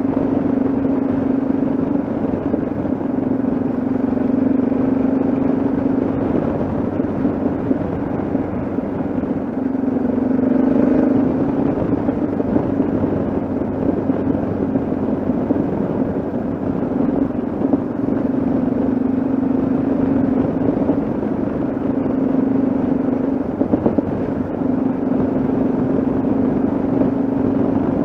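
Yamaha XT 660Z Ténéré's single-cylinder engine running at a steady cruise while riding, heard together with a dense rush of road and wind noise.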